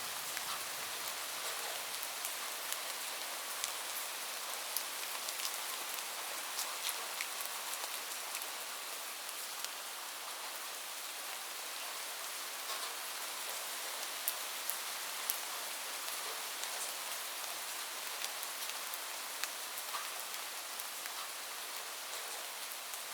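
Steady rain falling, a continuous hiss with many individual drops ticking sharply through it.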